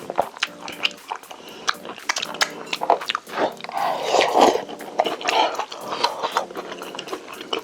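Close-miked eating sounds: chewing with many small crisp clicks, and a louder rush of mouth noise about four seconds in.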